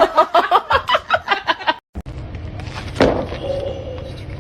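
A person laughing in quick, rhythmic bursts that cut off abruptly. Then, over a steady low hum, there is a single sharp knock about three seconds in.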